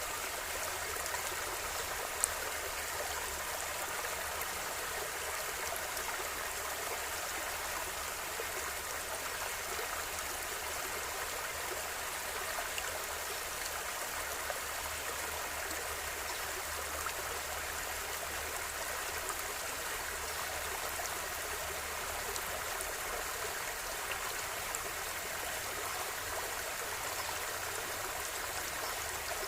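A river flowing steadily over stones, an even rushing and babbling of water, with a sharp click about two seconds in.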